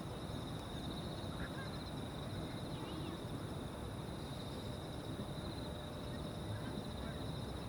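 A steady, high, finely pulsing chorus of insects trilling over a constant low background hum, with a few faint, short bird calls.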